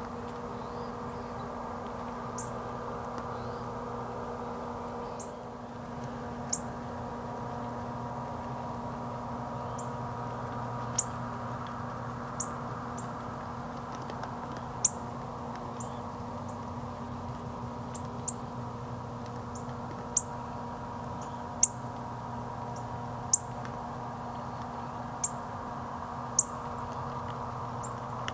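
A small bird giving short, sharp, high chip calls, singly and irregularly every second or two, over a steady low hum.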